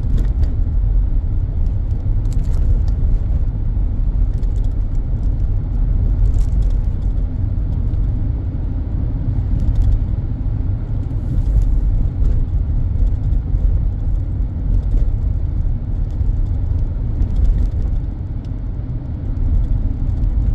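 A car being driven, heard from inside the vehicle: a steady low rumble of engine and road, with a few faint knocks.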